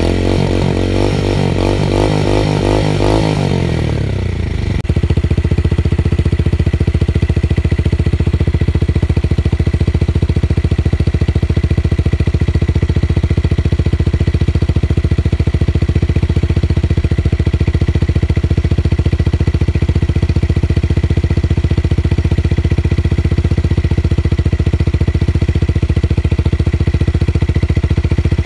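Tuned motorcycle engine revving, its pitch falling back over the first few seconds, then idling steadily with a deep, bassy tone.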